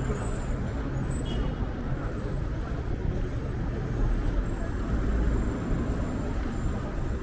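Strong wind buffeting the microphone with a heavy low rumble, over the steady noise of road traffic.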